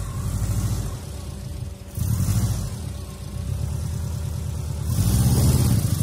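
Subaru Outback VDC's flat-six engine revving in uneven surges under load as the car crawls over a dirt mound, with a short dip just before two seconds in and the engine getting louder near the end.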